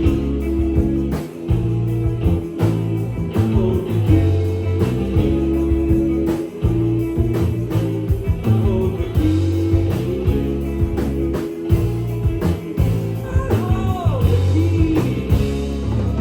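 Live rock band playing: electric guitar, bass and drums, with a vocal line coming in toward the end.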